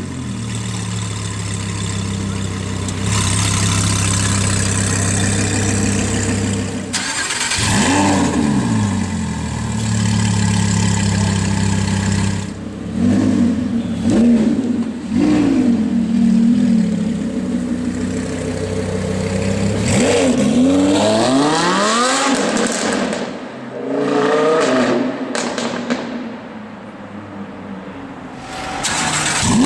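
Lamborghini Huracán's 5.2-litre V10 with a Frequency Intelligent (Fi) aftermarket exhaust, loud throughout. It runs steadily for the first dozen seconds, then revs up and falls back several times in rising and falling sweeps, with a quieter, duller spell near the end.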